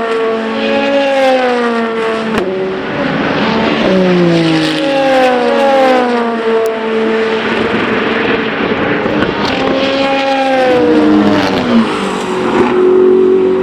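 Endurance race cars running at speed past the trackside, one after another, each engine note falling in pitch as the car goes by. A steadier engine note comes in near the end.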